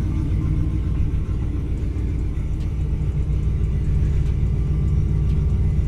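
A car engine running steadily, a low, even sound with no revving.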